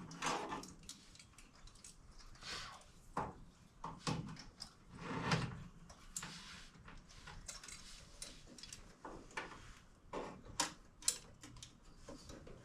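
Irregular clicks, knocks and light rattles of hand tools and metal fasteners being handled and fitted, with a few louder knocks scattered through.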